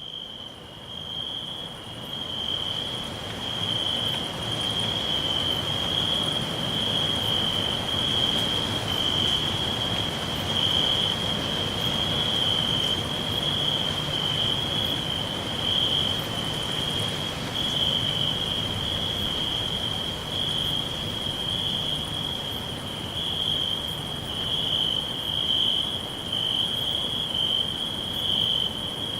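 Crickets chirping in a steady, unbroken high trill, fading in over the first couple of seconds.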